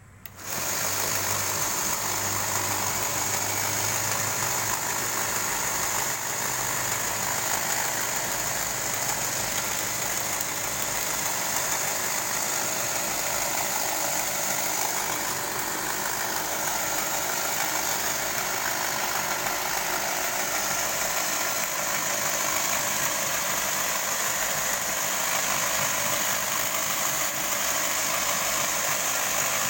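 Homemade belt grinder, driven by the electric motor salvaged from a water pump, switched on a fraction of a second in and then running steadily with the sanding belt turning over its rollers.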